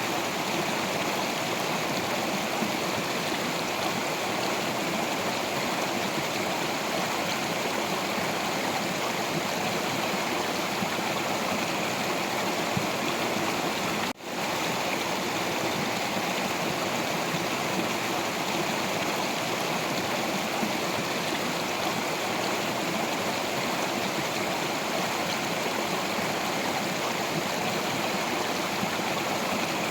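Stream water flowing over rocks: a steady rushing that breaks off for an instant about halfway through.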